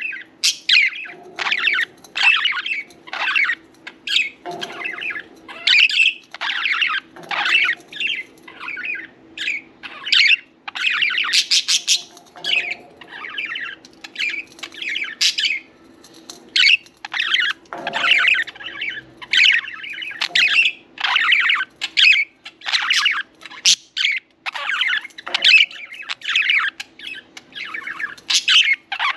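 Pet budgerigars chirping and chattering without pause: short, sharp high calls follow one another in quick succession, often overlapping.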